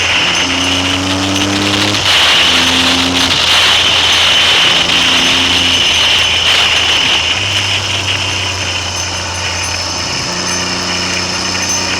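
Triumph Trident three-cylinder motorcycle engine running on the road, its note changing several times, under heavy wind noise on the camera microphone that gets louder about two seconds in.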